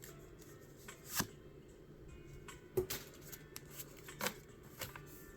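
Trading cards being handled and flicked through by hand: quiet sliding with a few short, sharp card snaps spaced irregularly.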